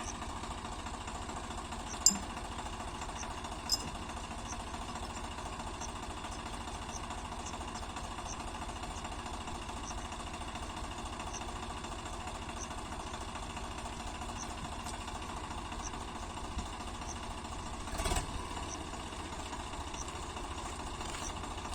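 Diesel tractor engine idling steadily. Two sharp clicks come early on, and a louder knock comes near the end. A faint high tick repeats about twice a second.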